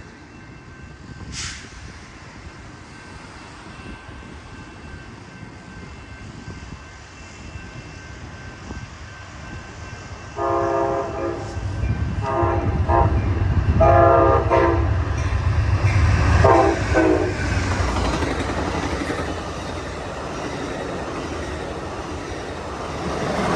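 Amtrak California Zephyr's diesel locomotive sounding its horn four times as it approaches at speed, starting about ten seconds in, with a rising rumble as the locomotives pass. The noise of the passenger train going by follows.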